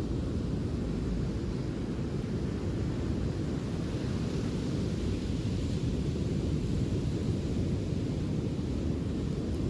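Steady low rumble with a faint hiss above it, the outdoor noise of wind and surf on a sandy beach.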